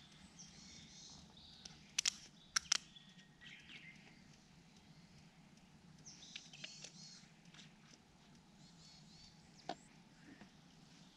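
Wild birds chirping in short warbling phrases over a low steady background hum, with four sharp clicks about two seconds in.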